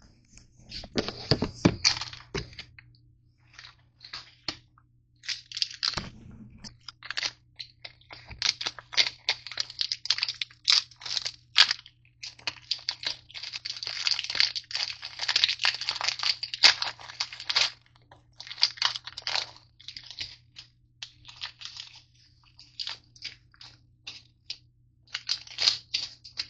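Irregular crunching and crinkling of crunchy Nature Valley granola bars being handled in their wrappers, in bursts with short pauses between them.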